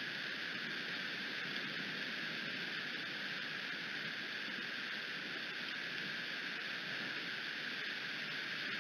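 Steady rain falling, an even hiss with no separate drops, knocks or calls standing out.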